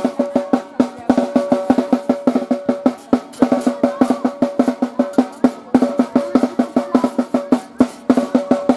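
Drums beaten in a fast, steady rhythm, about five strokes a second, with a steady held tone sounding underneath.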